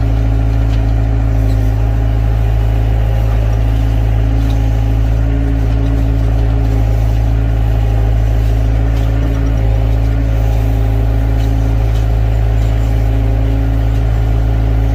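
Excavator's diesel engine running steadily at working revs, a loud, even drone with little change in pitch.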